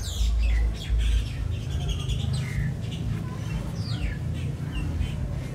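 Small birds chirping, many short falling chirps one after another, over a low rumble that is loudest in the first second or so.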